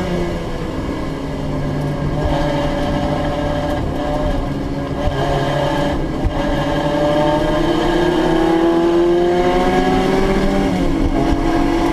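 Group A and Group C touring cars racing in a pack, several engines at high revs at once, their pitches rising as they accelerate.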